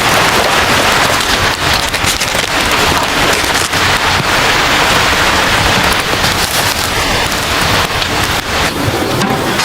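Heavy rain falling steadily and loudly, a dense hiss of drops striking a surface.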